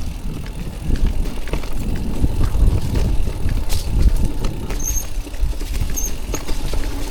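An e-mountain bike riding over a rough, debris-strewn trail: tyres rumbling over the ground with repeated knocks and rattles from the bike, under low wind noise on the microphone. A few brief high squeaks sound about five and six seconds in.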